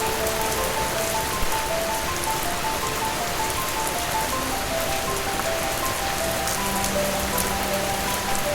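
Steady rain falling on surfaces, with a slow melody of short held notes playing over it.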